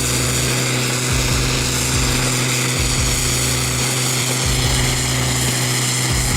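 A large engine running steadily at constant speed: a continuous drone with a low hum and a rumble that swells and drops every second or so.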